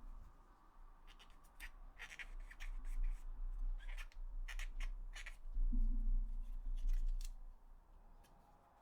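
A run of short, sharp plastic clicks and snips with low thumps, from hands working on the parts of a PlayStation 4 DualShock 4 controller during a teardown. The clicks are densest in the middle and die away near the end.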